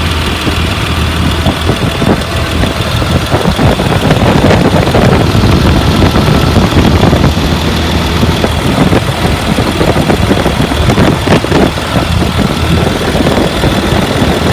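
2004 Blue Bird All American school bus's diesel engine idling, heard close up at the open engine, growing louder for a few seconds in the middle. It runs smoothly and sounds healthy.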